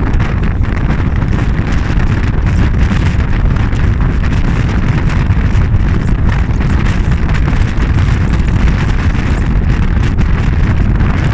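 Wind buffeting the microphone: a loud, steady, deep rushing noise without a break, as from moving through open air.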